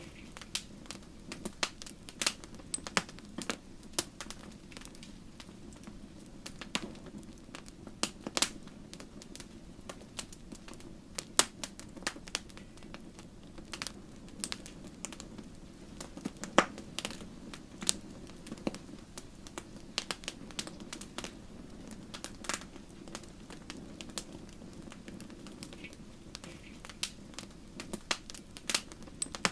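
Wood fire burning in a fireplace: a steady low rush of flames with logs crackling and popping at irregular intervals, a few pops sharper and louder than the rest.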